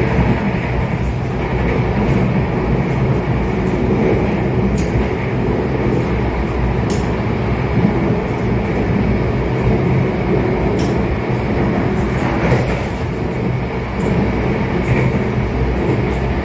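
Running noise of the Fajar Utama Solo passenger train heard on board at speed: a steady rumble and rush of wheels on rail, with a few sharp clicks.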